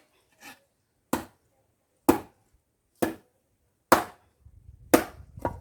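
Wood being chopped: a series of sharp, evenly spaced blows, about one a second.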